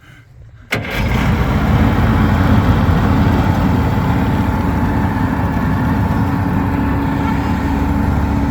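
Two-stroke outboard motors on a jet jon boat running steadily at an even pitch. The sound cuts in suddenly, loud, about a second in.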